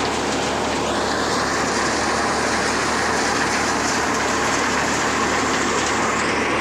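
New Holland 3600-2 tractor's diesel engine running steadily under load at about 1400 rpm without dropping, driving a thresher, with the dense steady rush of the machine threshing black mustard.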